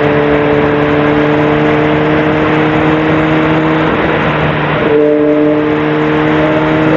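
Sportbike engine running at a steady highway cruise, one even engine note under heavy wind rush, with a brief change in the note about four to five seconds in.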